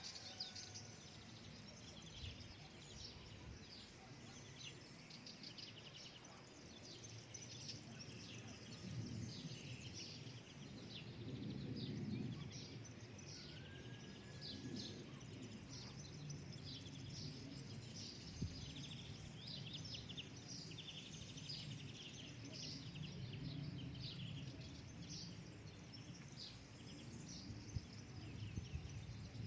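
Many small birds chirping and twittering in quick short notes throughout, over a low, uneven rumble.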